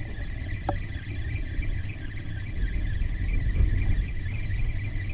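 Fishing reel's drag buzzing steadily as a hooked fish pulls line off the spool, over a low rumble of wind on the microphone.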